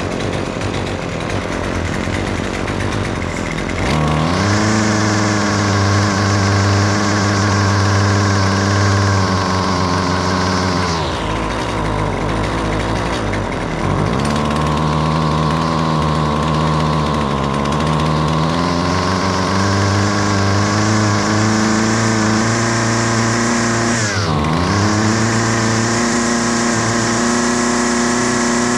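Husqvarna 128LD string trimmer's two-stroke engine revving up from idle to high speed and holding there, dropping back about 11 seconds in, then climbing again, with a brief dip near the end. With its clogged muffler screen cleaned, the engine now revs up freely.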